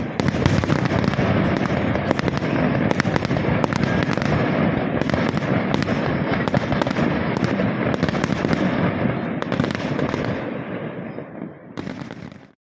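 Fireworks display: a dense, continuous run of cracks and bangs, thinning out near the end and then cutting off abruptly.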